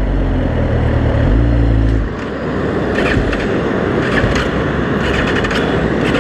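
Suzuki GSX-R sport bike on the move: the engine holds a steady pitch for about two seconds, then drops away, leaving mostly wind and road noise.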